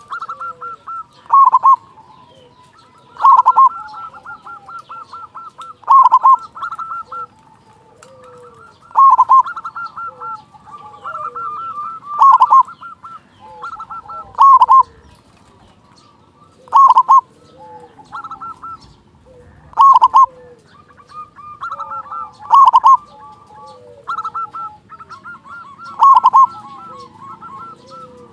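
Zebra dove (perkutut) cooing: a loud call about every two to three seconds, with softer rolling trills in between.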